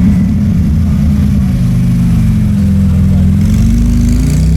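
Car engine running loudly with a deep note; its pitch rises slowly and drops again near the end.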